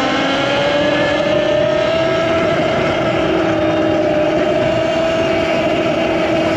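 Talaria MX5 electric motorbike's motor whine while riding, rising in pitch over the first couple of seconds as it speeds up and then holding steady, over a constant rush of wind and road noise.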